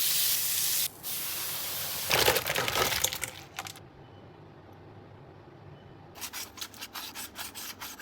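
Hot oil sizzling with a steady hiss, then a louder burst of crackling and spitting about two seconds in. After a quiet stretch, a quick run of sharp clicks and taps comes near the end.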